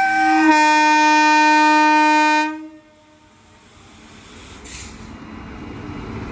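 Indian Railways locomotive horn sounding a long, loud blast that shifts to a different chord about half a second in and stops about two and a half seconds in: the departure signal of a passenger train. A short hiss comes near the five-second mark, and a low rumble builds as the train gets moving.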